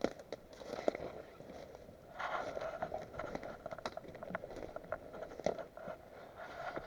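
Scattered sharp clicks and scraping, rustling handling noises, with the rustling thickening about two seconds in.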